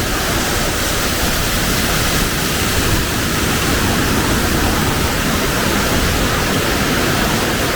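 Waterfall rushing close by: a loud, steady roar of falling water with no breaks.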